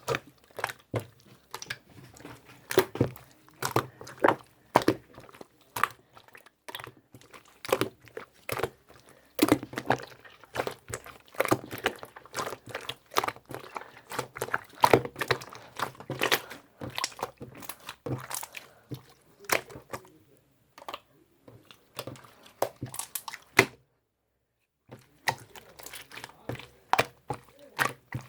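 Irregular close-up clicks, taps and crunches, like small objects being handled or something being crunched near the microphone, with a brief total dropout near the end.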